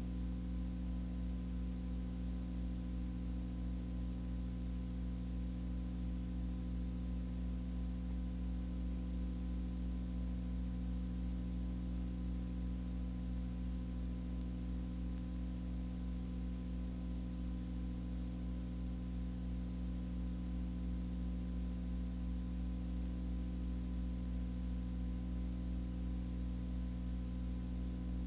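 Steady low hum with a layer of hiss, unchanging throughout.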